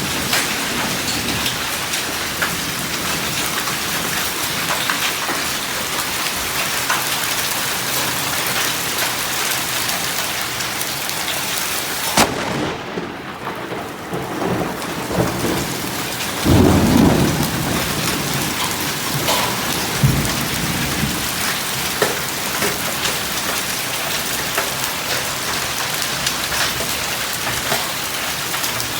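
Heavy rain and hail pouring down in a thunderstorm, a steady downpour studded with sharp taps. Thunder rumbles near the start and again about 17 and 20 seconds in.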